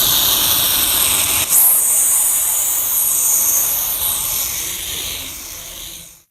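Loud, steady hiss of pressurised air, with a brief click about a second and a half in, cutting off sharply near the end.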